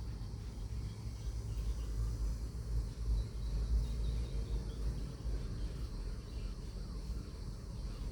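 Steady low hum with a faint hiss from a radio-cassette player's speaker.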